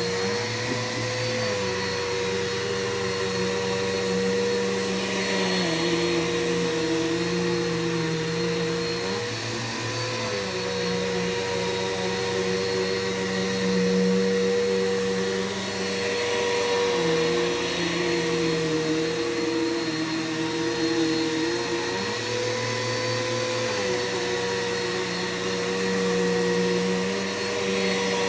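Bissell PowerForce bagless upright vacuum cleaner running steadily. Its motor hum shifts slightly in pitch a few times, about a second in, around nine seconds and around twenty-two seconds.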